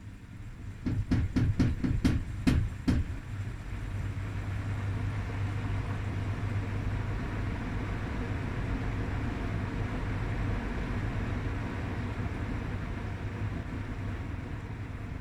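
Bosch washing machine during its suds-lock routine: a quick run of sharp knocks, about four a second, then a steady low hum with a rushing noise.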